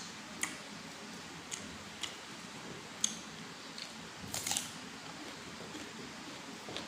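Close-miked eating: scattered crisp clicks and crunches of a person chewing and handling food, with a louder cluster of crunching about four and a half seconds in.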